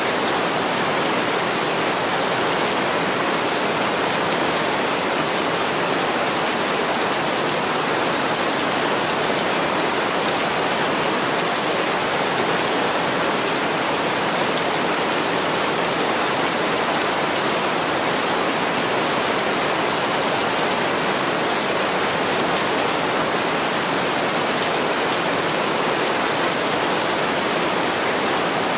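Heavy rain pouring steadily on a window, a dense, even hiss that does not let up.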